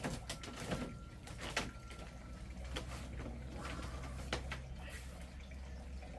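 A handful of separate knocks and clatters, irregularly spaced, over a steady low hum.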